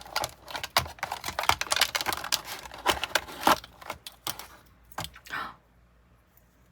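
Small plastic packaging and items being handled: a quick, irregular run of clicks, taps and rustles that stops about five and a half seconds in.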